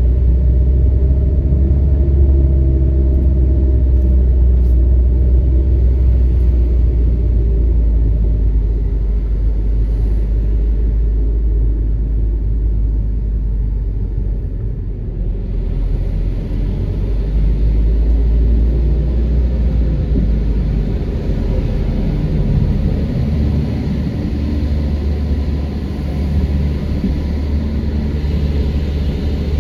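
Car engine and tyre rumble heard from inside the cabin while driving slowly, a steady low drone. About halfway through a soft hiss joins in.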